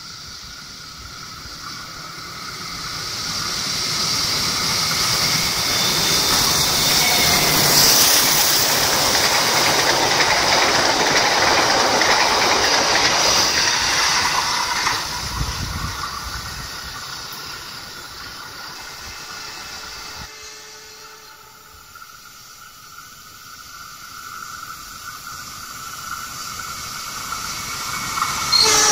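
A locomotive-hauled passenger train passes close by: the rush of its wheels on the rails builds up, is loudest in the middle, and fades as the coaches go by. Then a second train is heard approaching, growing louder, and its horn starts to sound at the very end.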